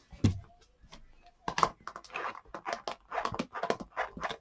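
A photopolymer stamp being dabbed repeatedly on an ink pad: a run of soft irregular pats and clicks starting about a second and a half in.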